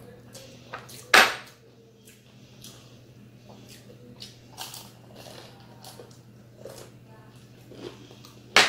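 Crispy fried chicken skin being bitten and crunched while eating, in a series of short crisp cracks. Two much louder sharp cracks come about a second in and near the end.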